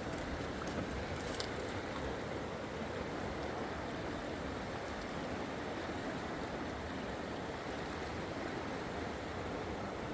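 Steady rushing of river water, an even continuous wash with no change.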